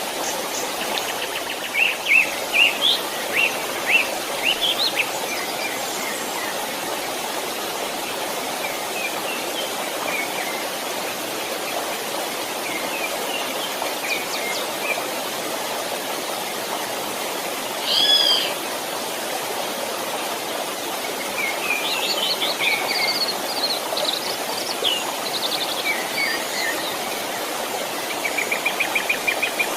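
A creek running steadily, with birds singing over it in scattered chirps and short phrases; one louder two-note call about two-thirds of the way through, and a fast trill near the end.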